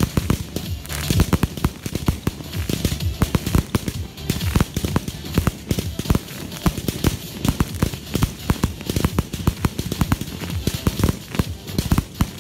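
Fireworks display with aerial shells bursting in quick, overlapping succession: many sharp bangs with crackling between them.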